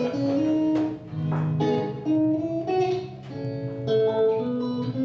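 Acoustic guitar picked in a slow instrumental introduction to a song, single notes ringing over held chords.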